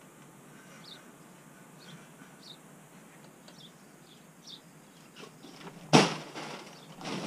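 Small birds chirping faintly in short high notes, over the quiet of hand work with hemp wool insulation. About six seconds in comes one sharp thump, the loudest sound, and a smaller knock follows near the end.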